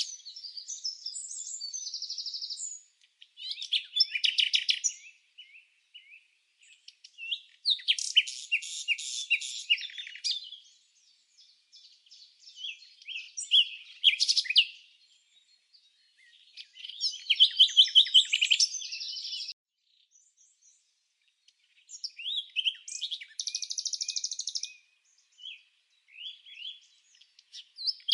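Songbird song: phrases of rapid, high-pitched chirps and trills, each lasting a second or two, with short pauses between them.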